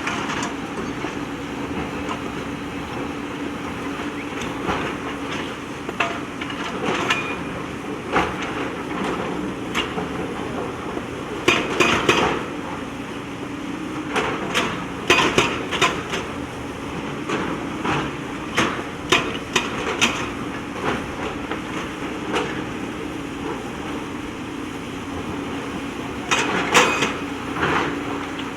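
JCB backhoe loader's diesel engine running steadily under repeated sharp clanks and knocks of stones striking the steel bucket, in clusters about 12 s, 15 s and 27 s in.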